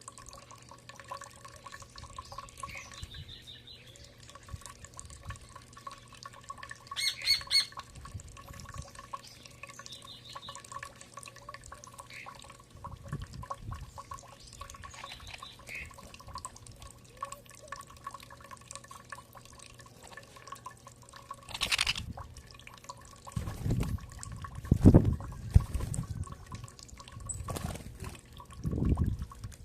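Birds giving short, scattered calls, one louder harsh call about a quarter of the way in, over a faint steady hum. Several loud low thumps come in the last third.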